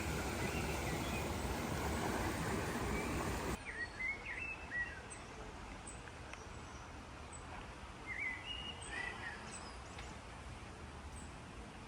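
A steady rushing noise cuts off abruptly about three and a half seconds in. After that, birds chirp in short calls over a quiet background, in a cluster around four to five seconds and again around eight to nine seconds.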